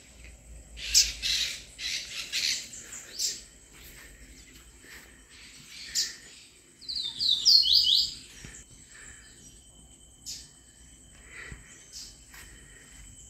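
Wild birds chirping and calling in short repeated bursts, with a quick run of four or five rising whistled notes about seven seconds in, over a faint steady high-pitched tone.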